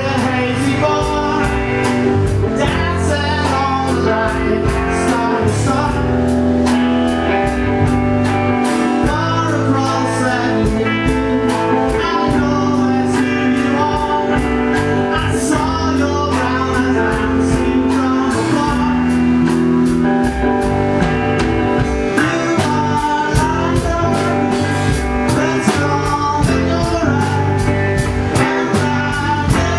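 Live band playing an instrumental blues-rock passage: guitar over bass and drum kit, with a steady beat.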